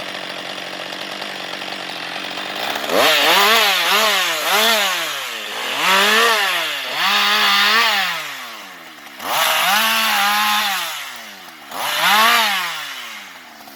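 Husqvarna 560XP two-stroke chainsaw idling, then revved up and down about half a dozen times, each burst climbing to a high whine and falling back. It drops back toward idle near the end.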